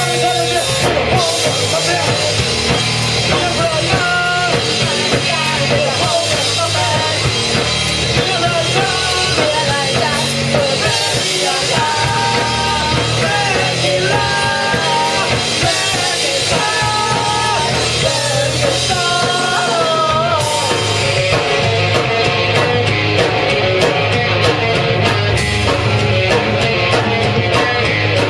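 Rock band playing live, with drum kit driving a fast beat and a lead vocal singing over it, the singing dropping out after about twenty seconds while the band plays on.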